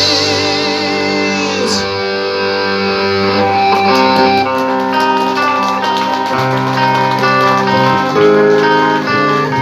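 Symphonic metal band playing live in an instrumental passage: a guitar picks a run of short notes over held chords.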